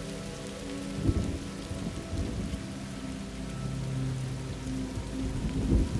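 Thunderstorm: steady rain falling, with low rumbles of thunder swelling about a second in and again near the end.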